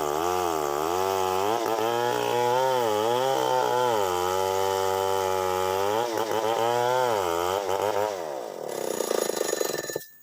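Two-stroke chainsaw running at high revs in a cut, its pitch dipping and recovering several times as the chain bogs under load. About eight seconds in the engine winds down, and the sound cuts off abruptly near the end.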